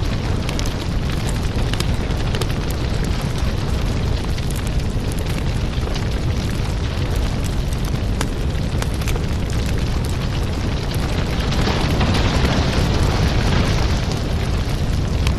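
Firewood burning: a steady low rumble of flames with frequent sharp crackles and pops from the wood, growing louder and hissier for a couple of seconds about eleven seconds in.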